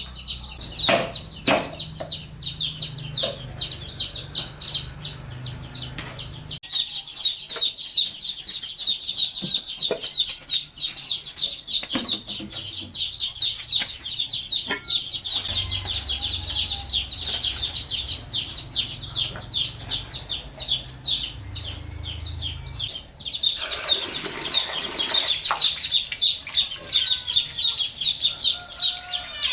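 Chickens, with chicks peeping rapidly and continuously in high-pitched chirps. About three-quarters of the way through, a hissing rush of noise joins for a few seconds.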